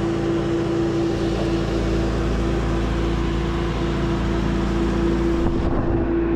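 Engine of a piece of machinery running steadily at constant speed, with a strong steady hum. The high hiss cuts off abruptly a little before the end.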